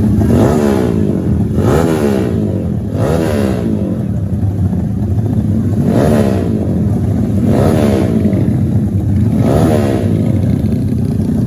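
Dirt-track racing motorcycles, engines revving in about six short bursts of rising and falling pitch over a steady engine drone.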